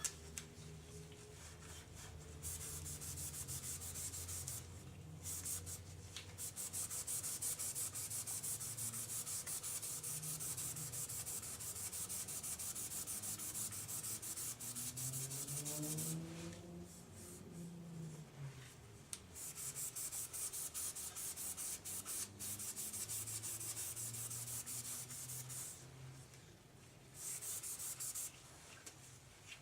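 Scotch-Brite abrasive pad scrubbing a distributor shaft in rapid back-and-forth strokes, scouring off corrosion and discoloration, stopping briefly a few times.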